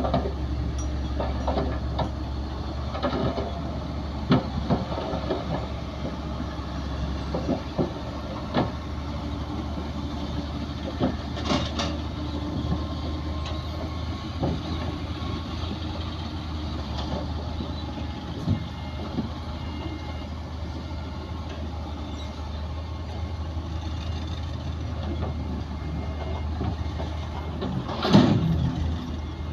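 Heavy diesel earthmoving machinery running with a steady low drone, with scattered metallic clanks and knocks and a louder clank near the end.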